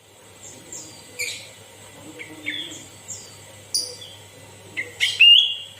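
Sooty-headed bulbul (kutilang) singing: a string of short chirps and downward-slurred whistles, the loudest a longer held note about five seconds in, over a low steady hum.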